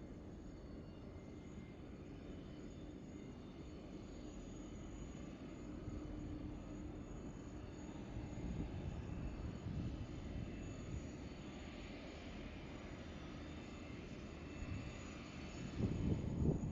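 Distant jet airliner engines: a low, steady rumble with a faint hum, swelling a little about halfway through and growing louder and more uneven near the end.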